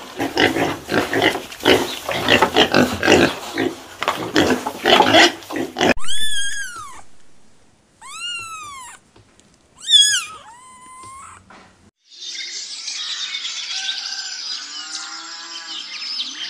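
Pigs grunting and squealing for about six seconds, then a cat meowing three times, each meow rising and then falling in pitch. From about twelve seconds in comes a dense, high, hiss-like sound whose source is not shown.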